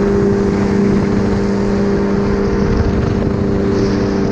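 Paratrike engine and propeller running steadily in flight just after takeoff: an even, unchanging drone.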